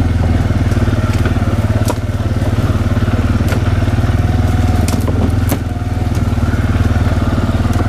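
Bobcat loader with a forestry cutter running hard, its engine giving a loud, steady drone. Several sharp cracks cut through it as brush and branches are shredded by the cutter head.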